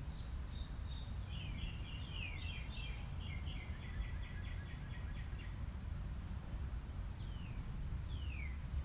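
A small songbird singing: a thin held whistle, then a fast trill of repeated notes for about three seconds, and later three separate notes sliding downward, over a steady low outdoor rumble.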